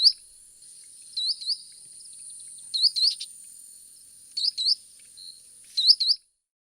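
A sandpiper calling: a high two-note call, each note sweeping upward, repeated five times about every second and a half, over a faint steady hiss.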